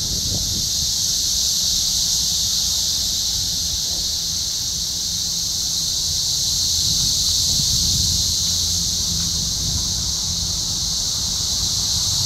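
Chorus of cicadas in the trees, a loud, steady, high-pitched drone with no break, over a low rumble.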